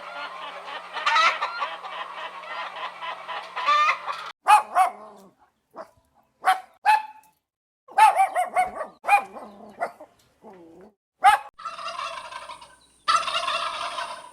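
Domestic fowl calling: about four seconds of dense, continuous flock calling, then a string of separate short calls with silent gaps, then two longer bursts of calls near the end.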